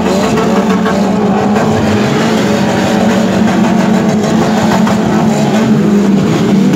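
Car engines running, loud and steady, with a slight rise and fall in pitch.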